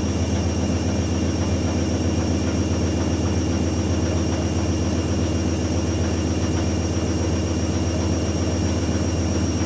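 AEG washing machine motor running the final spin with a fully loaded drum: a steady, even low drone that holds one pitch. The motor is going faulty during this spin.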